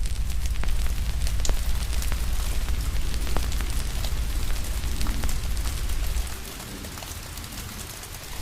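Wood fire crackling with sharp, irregular pops over a steady hiss of rain. A deep rumble underneath drops away about six seconds in, then returns at the very end.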